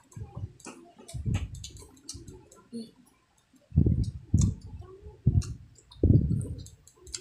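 Close-miked eating of squid adobo: wet mouth clicks and lip smacks from chewing. About halfway through come a few louder, low gulps as water is drunk.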